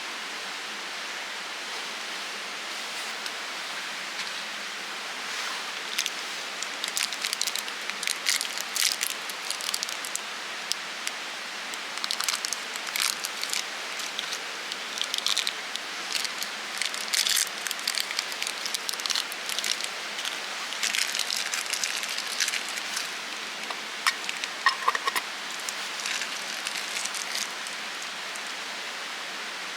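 Wood campfire burning with a steady hiss and irregular clusters of sharp crackles and pops.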